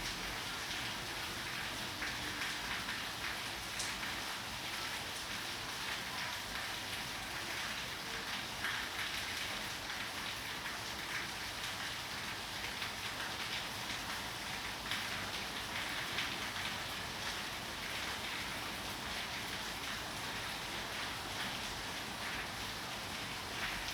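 Steady rain falling, a dense even patter of drops hitting a surface.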